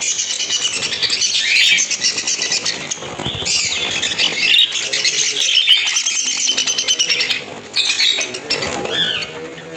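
A flock of budgerigars chattering, many birds chirping and warbling over one another without a break.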